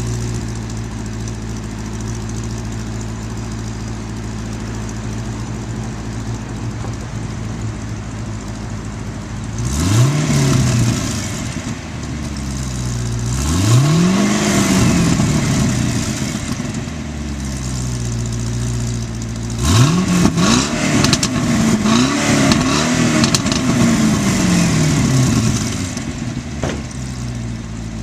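2006 Pontiac GTO's 6.0-litre LS2 V8 through its stock exhaust: it idles steadily, is blipped once about ten seconds in, revved up and let fall a few seconds later, then given several quick revs in a row before settling back to idle near the end.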